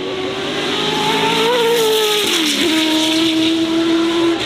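Race car engine running hard at high revs. Its pitch climbs slightly, drops sharply a little past halfway, then holds steady at a lower pitch.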